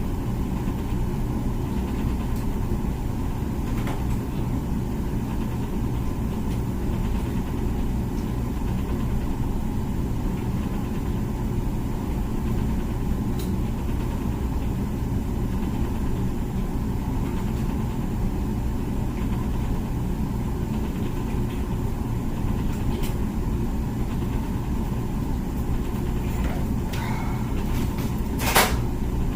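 Comfee dishwasher running its wash cycle with a steady low hum. A single sharp knock comes near the end.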